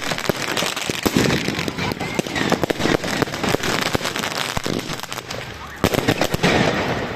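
Fireworks going off in a dense barrage: rapid cracks and bangs overlapping almost continuously, easing briefly about five seconds in before another burst of loud cracks.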